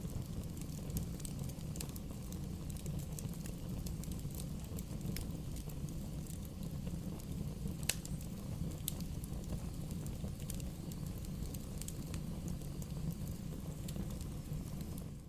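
Bonfire burning: a steady low rumble of flames with a few sharp crackles and pops scattered through it.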